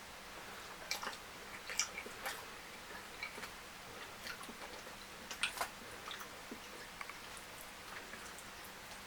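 Close-miked eating sounds from a person chewing fried fish and fufu with curry: irregular wet mouth clicks and smacks, the sharpest about two seconds and five and a half seconds in.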